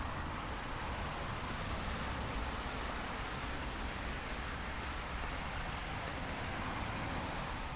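Steady rain on a city street: a continuous even hiss with a low rumble beneath it, likely from traffic on the wet road.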